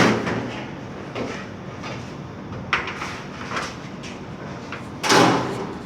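Sliding and knocking sounds of parts being handled, a few separate knocks with the loudest about five seconds in.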